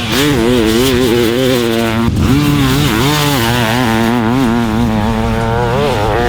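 Dirt bike with a 500cc two-stroke engine (a modified Honda CR500) running hard, its pitch rising and falling with the throttle, with a short cut in power about two seconds in before it picks up again.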